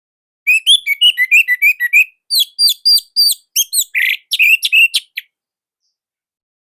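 Orange-headed thrush singing one fast phrase of many short notes that rise and fall in pitch, lasting about four and a half seconds, then stopping.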